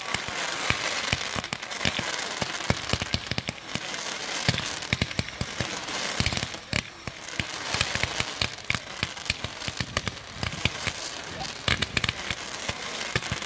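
Display fireworks going off: a dense run of sharp bangs and crackling over a steady hiss.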